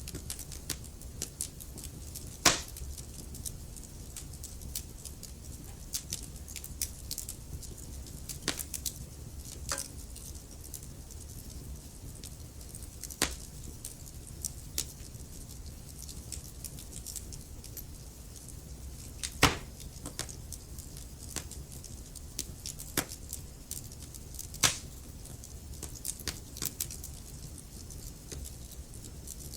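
Wood fire crackling: a steady low rumble of burning logs under frequent small snaps, with four louder, sharper pops spread through it.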